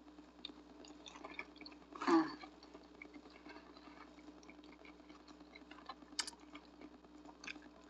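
Faint close-up chewing of a mouthful of pizza burrito: soft, scattered wet mouth clicks and smacks, with one louder mouth sound about two seconds in. A faint steady hum sits underneath.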